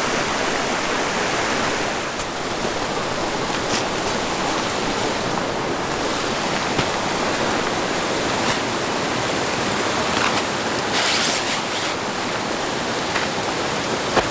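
Steady rushing of river water, with a few faint clicks and rustles near the end.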